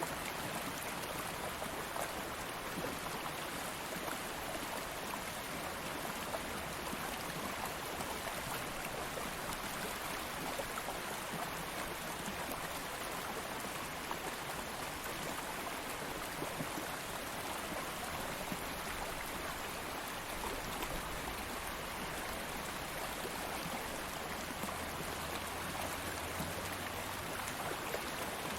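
Stream water flowing and burbling steadily over stones.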